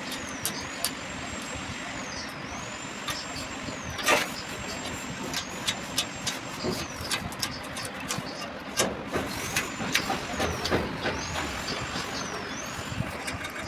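Tools clinking and knocking on engine parts over steady background noise, with one louder knock about four seconds in. A faint high chirp repeats every second or two.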